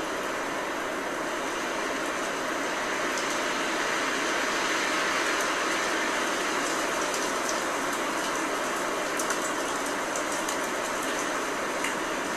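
Blizzard wind blowing in a steady rush that swells a little about halfway through, with faint scattered ticks over it.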